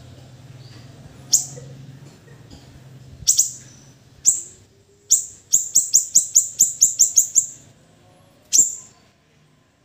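Siri-siri bird calling: sharp, high notes that fall quickly in pitch, given singly and in a quick double, then a fast run of about nine notes, roughly four a second, and one more near the end. A low hum sits under the first few seconds.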